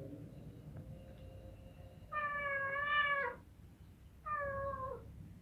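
A mother cat meowing twice: a long meow about two seconds in, then a shorter one that drops in pitch at its end.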